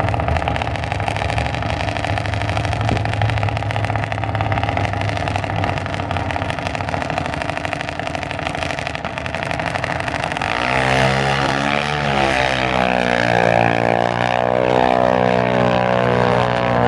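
Drag-racing engine running steadily, then, about ten seconds in, a louder engine note whose pitch sweeps as a vehicle launches and runs down the strip.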